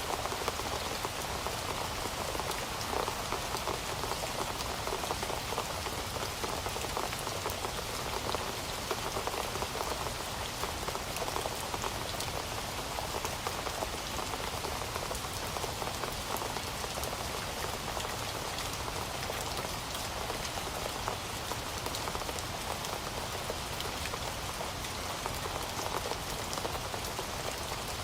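Heavy rain falling steadily: a dense, even hiss with many individual drops pattering through it.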